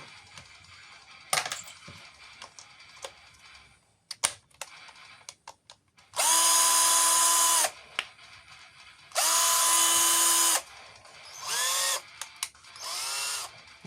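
A few light clicks and taps of handling, then the Parkside PPBSSA 12 A1 cordless drill with the B16 quick-change tap adaptor fitted is run in a test. It runs twice for about a second and a half each, spinning up to a steady whine and winding down. Two shorter runs near the end rise in pitch.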